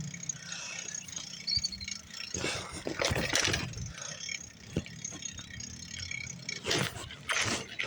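A bicycle rattling and clattering as it is ridden, with louder stretches of clatter about two and a half seconds in and again near the end.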